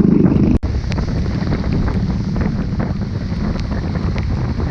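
Wind buffeting the microphone on a moving ride, over a steady low rumble of vehicle and road noise. The sound drops out for a split second about half a second in.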